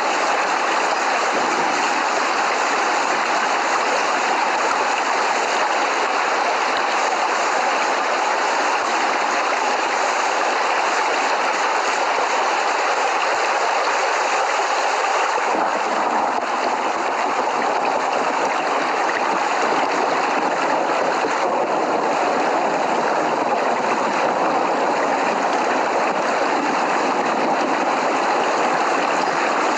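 Steady heavy rain falling, a dense continuous hiss with no thunder; its texture shifts slightly about halfway through.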